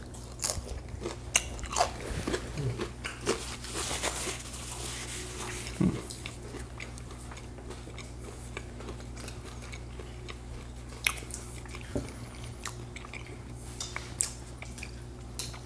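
People chewing crisp, crunchy pan-fried bacon: a run of crunches over the first several seconds, then only a few scattered ones.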